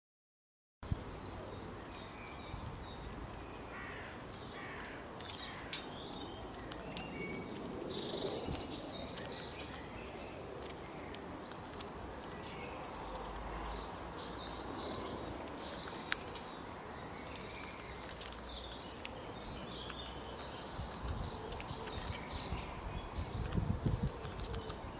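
Several birds chirping and calling over steady outdoor background noise, starting about a second in. There are a few sharp clicks, and a low rumble comes near the end.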